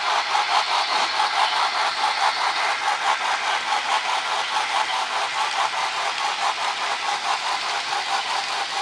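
Model trains running on the track: a steady mechanical clatter and hum that pulses evenly several times a second.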